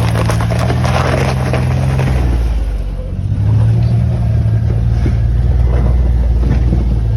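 Small gas engine of an engine-swapped Power Wheels quad running hard while the quad is stuck, its note easing off about two and a half seconds in and then revving back up and holding.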